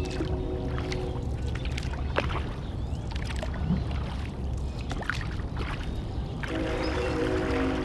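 Kayak paddle strokes: blades dipping and water splashing and dripping in short scattered ticks over a steady low rumble. A pitched drone is heard during the first second or so and again from about six and a half seconds in.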